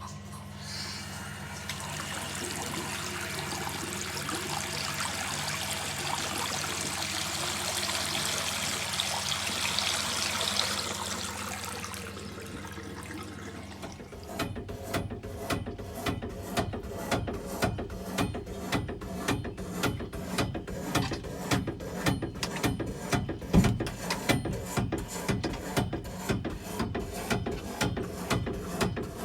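Water running with a steady low hum under it. About fourteen seconds in, the running stops and a fast, regular knocking starts, several knocks a second: the banging noise in the household water plumbing.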